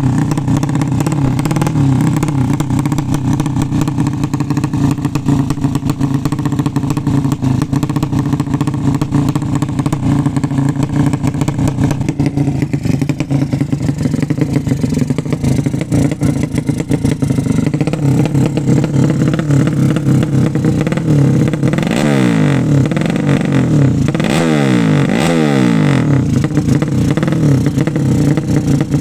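A racing motorcycle's 200 cc engine running loudly and steadily, then revved up and down several times in the last third.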